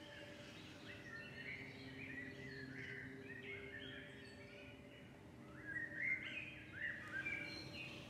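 Small birds chirping and twittering in many short calls, thicker about six seconds in, over a faint steady low hum.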